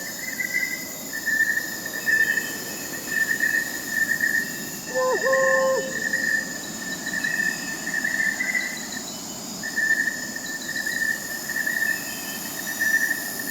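Night chorus of crickets chirping steadily, with one short hoot-like call about five seconds in, taken for an owl in the distance.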